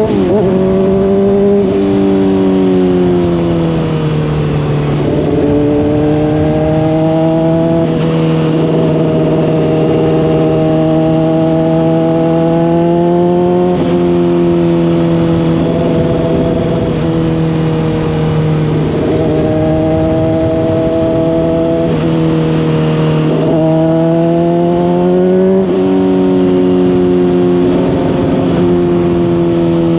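Honda CBR600RR inline-four engine through a Hotbodies Stinger slip-on exhaust, running at moderate riding revs. Its pitch holds for several seconds, then dips and climbs again a number of times. A steady wind rush sits underneath.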